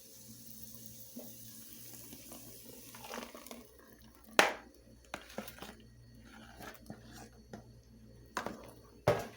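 Blended broth poured into a cooking pot, with scattered utensil clicks against the pan and a sharp knock about four and a half seconds in and again near the end.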